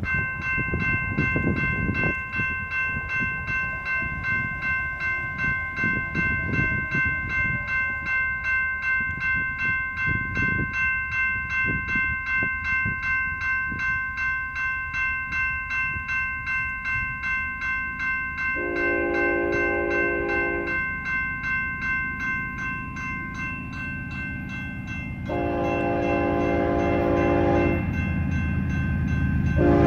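Grade-crossing warning bell ringing steadily with a rapid pulsing ding, about two strokes a second, as an approaching BNSF freight train led by locomotive 6622 sounds its horn: two long blasts in the second half, about two and two and a half seconds long, with a third beginning at the very end. The low rumble of the oncoming train grows louder toward the end.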